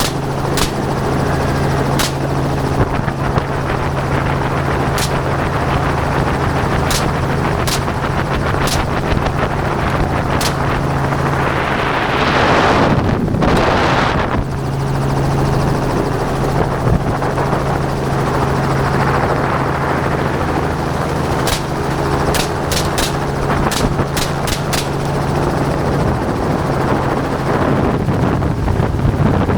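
Helicopter running steadily overhead with a steady rotor hum, while gunshots are fired from it at hogs: single shots spaced a second or more apart in the first third, and a quicker run of shots toward the end. Near the middle, a rush of wind noise swells and drops away.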